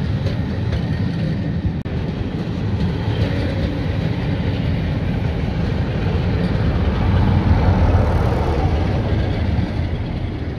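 A train rolling through the station: a steady heavy rumble of wheels on rail that grows louder about seven seconds in, then eases off near the end.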